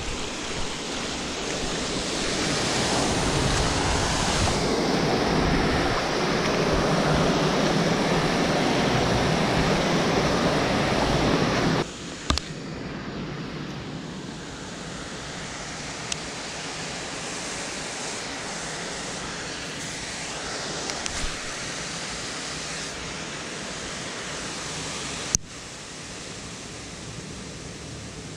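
Steady hiss of rain falling on water and the bank. It is louder and rougher for the first twelve seconds, then drops suddenly to a quieter even hiss, with a few sharp clicks, the loudest near the end.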